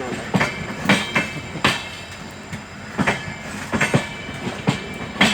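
Passenger train with an LHB coach rake rolling past, its wheels clattering over rail joints in sharp, irregular clicks several times a second over a steady rumble.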